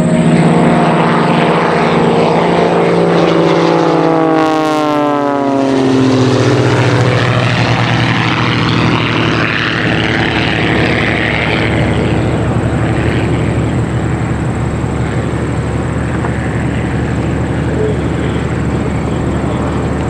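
Two Christen Eagle aerobatic biplanes flying a low, close pass in formation. Their propeller engines drop sharply in pitch as they go by, about four to six seconds in, then carry on as a steady drone as they fly away.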